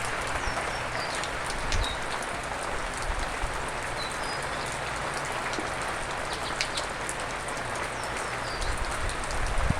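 Steady rain falling, an even hiss with scattered drop ticks and a few short, high chirps now and then.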